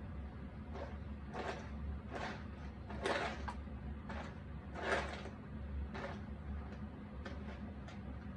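Cardboard jigsaw puzzle pieces being handled and fitted by hand: a string of short scrapes and taps, about ten in all, the loudest about three and five seconds in, over a low steady hum.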